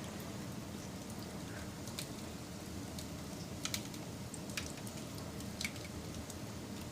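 Wood fire crackling: a steady low rush broken by about five sharp pops, a close pair of them near the middle and the loudest soon after.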